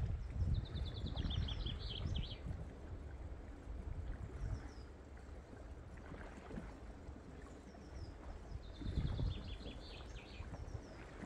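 A songbird sings a short, fast trilled phrase twice, about eight seconds apart, with a few faint high chirps between. Under it runs a steady low rumble of wind and moving water.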